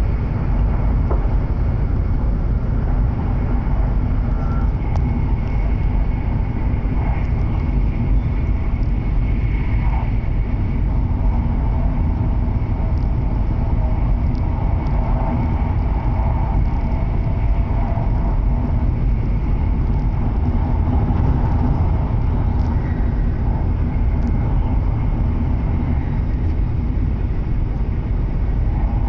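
Inside the passenger cabin of a W7 series Shinkansen car under way: a steady low rumble with a faint hum of a few steady tones above it.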